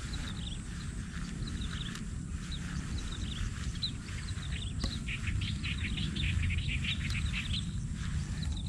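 Small birds chirping in quick runs of short, high notes, in clusters with brief pauses between them, over a steady low rumble.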